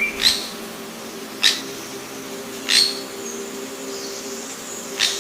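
A bird giving four short, sharp calls at uneven intervals over a steady low hum.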